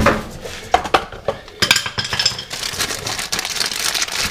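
Metal tools and brake parts being handled: a run of sharp clinks and scraping, busiest about midway through.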